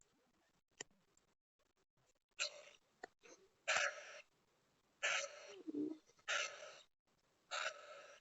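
Pet bird giving a run of harsh, rasping squawks, five of them roughly a second apart, after a couple of seconds of faint clicks.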